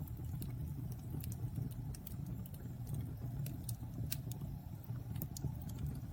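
Wood fire burning in a fireplace: a steady low rumble of flames with frequent small crackles and pops of burning wood.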